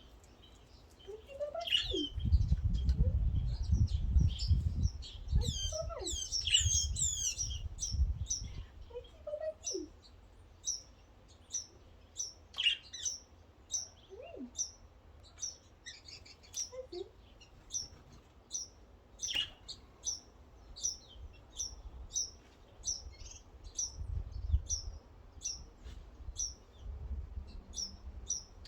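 Small birds chirping: one bird repeats a short, high chirp about twice a second, with other scattered calls and lower sliding notes in the first half. A low rumble on the microphone comes through for several seconds near the start and again near the end.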